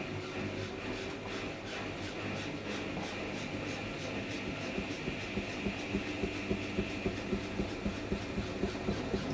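Samsung Eco Bubble washing machine running mid-wash on a cotton cycle: a steady motor whine with an even rhythmic clicking as the drum turns, and a regular low thump about two or three times a second that grows stronger from about halfway.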